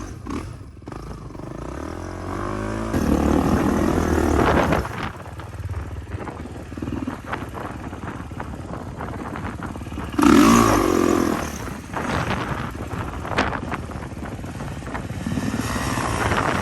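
Dirt bike engines, 450cc four-stroke singles, revving in uneven bursts. There are loud blips of throttle about three seconds in and again, loudest, about ten seconds in, with some clatter between.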